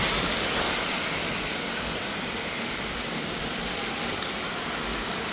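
Steady hiss of heavy rain, loudest in the first second or two before easing to an even level, with a single short click about four seconds in.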